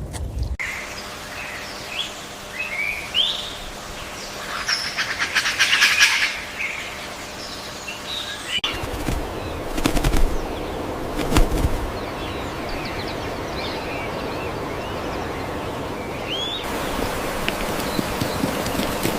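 Edited outdoor clips of birds chirping with quick, curving calls, including a fast fluttering rattle. In the middle stretch come a few sharp knocks and low thumps, and then the chirping returns.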